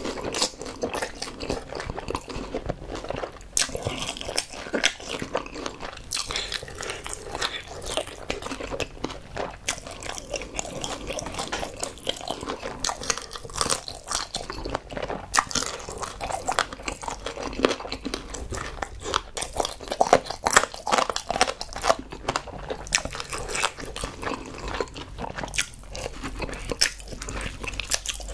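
Close-miked biting and chewing of sauce-glazed fried chicken: a dense, irregular run of crunches from the fried coating, mixed with chewing sounds.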